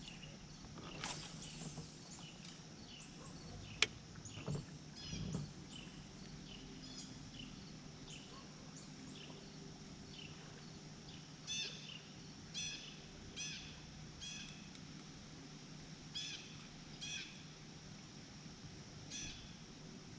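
Birds chirping and calling, short high notes repeated again and again, over a faint steady low hum. There is a brief swish about a second in and a single sharp click about four seconds in.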